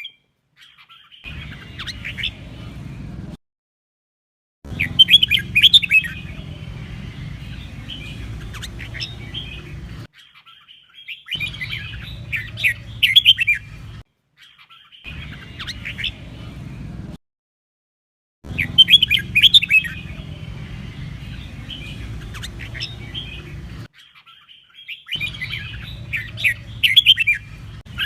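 Red-whiskered bulbul song: quick, chattering whistled phrases delivered in bursts of a few seconds, broken by short, completely silent gaps.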